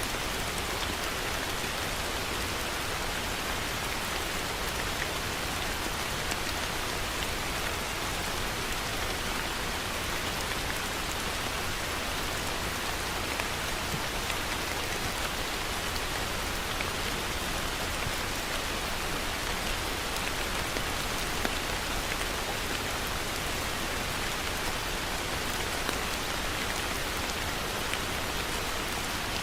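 Heavy rain falling steadily on a surface, a dense even hiss with scattered faint drop ticks.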